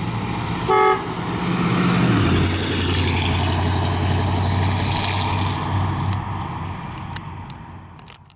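A car horn honks once briefly, then the 1950 Oldsmobile Rocket 88's 303 cubic-inch V8 and its tyres go by, the engine note dropping about two seconds in, and fade away as the car drives off.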